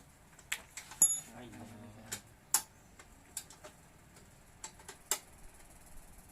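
A series of irregular sharp clicks and taps, about nine of them, the loudest about a second in.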